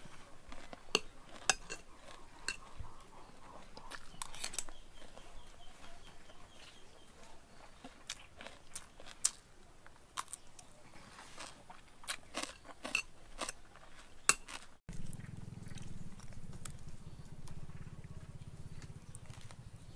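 A person chewing and biting crisp raw cucumber close to the microphone: scattered sharp crunches between quieter chewing. About 15 seconds in, the sound cuts to a low steady hum with a few light clicks.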